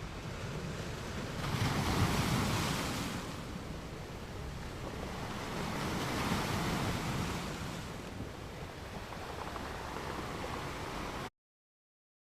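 Waves washing in as a steady rush that swells twice, then cuts off abruptly near the end.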